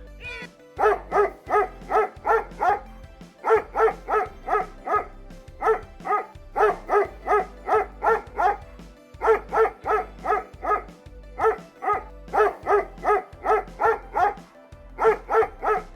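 A dog barking in quick runs of five or six barks, the runs repeating over and over, over steady background music.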